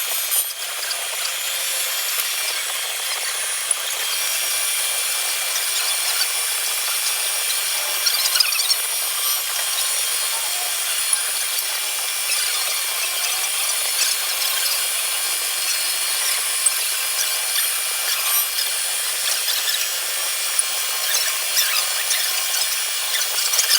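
Cylinder head facing machine cutting across the head's deck: a steady, high scraping noise with small scattered ticks throughout.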